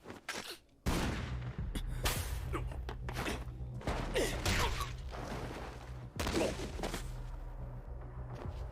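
Anime action-scene soundtrack: gunfire and sharp impacts over a steady low rumble, starting about a second in.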